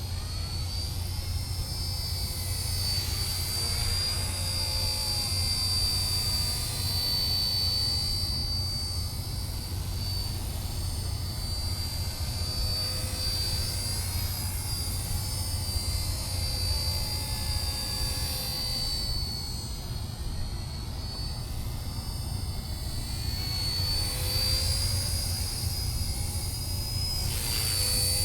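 Small electric RC model helicopter (ERA UH-1 Huey) running: a steady high motor whine that wavers slightly in pitch, over a low rumble from the rotors.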